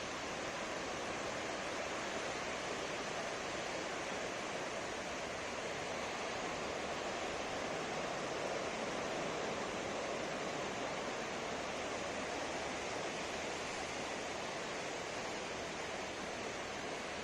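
Ocean waves breaking on a sandy beach: a steady wash of surf without distinct crashes.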